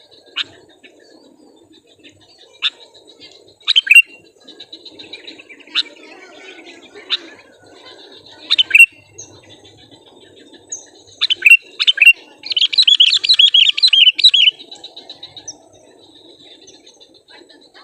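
Sooty-headed bulbul (kutilang) calling: short sharp notes every second or two, then a loud run of rapid chattering notes lasting about two seconds past the middle. A faint steady high buzz runs in the background.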